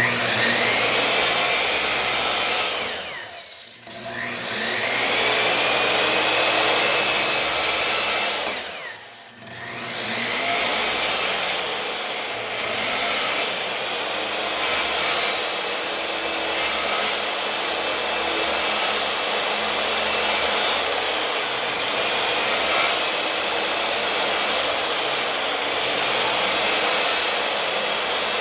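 An electric power tool cutting or abrading wood, running loud and steady. Twice in the first ten seconds the motor winds down and back up, and after that the sound swells and eases about once a second as the work is fed through.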